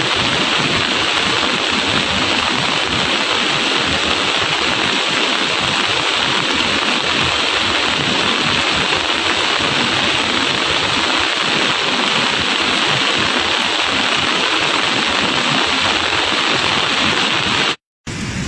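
Heavy rain falling, a steady loud hiss. It cuts out abruptly near the end and comes back a little quieter.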